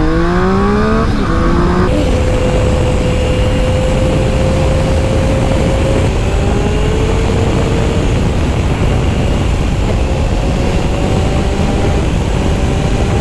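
Triumph Speed Triple's three-cylinder engine accelerating, its pitch climbing steeply for the first two seconds and then pulling on in a higher gear with the pitch rising slowly, under steady wind rush at a helmet camera.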